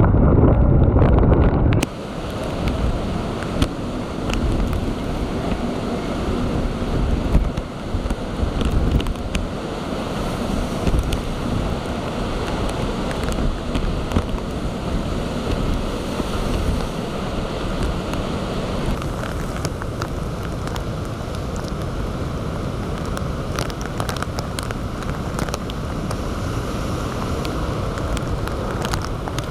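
Typhoon wind and storm surf: heavy wind buffeting on the microphone cuts off abruptly about two seconds in, giving way to a steady noise of strong wind and breaking waves with scattered sharp ticks.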